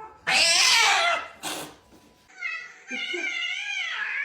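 Cat meowing: one loud meow, a short one, then higher, wavering mews that carry on.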